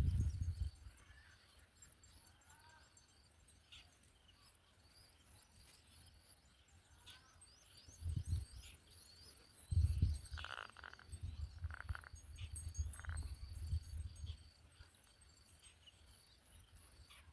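Quiet outdoor ambience with faint, scattered bird chirps and a few short high calls in the second half, broken by intermittent low rumbles.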